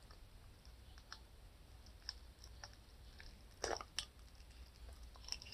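Faint eating sounds: quiet chewing with scattered small mouth clicks, two slightly louder clicks about two-thirds of the way in.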